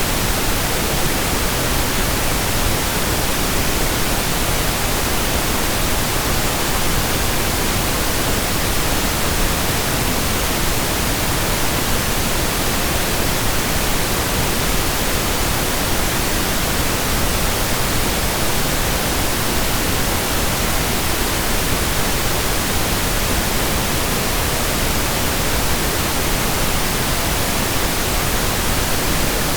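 Steady pink noise: an even, unchanging hiss spread across the whole range, softer in the highs than white noise.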